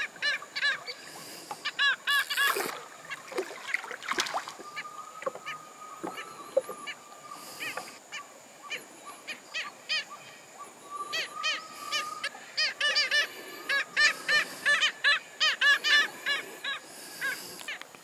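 Bird calls: harsh honking squawks in quick runs of several a second, heaviest in the second half.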